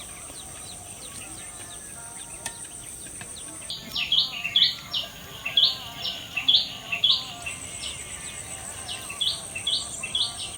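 A bird calling in runs of short, falling notes, about two a second, starting a few seconds in and again near the end, over a steady high insect drone.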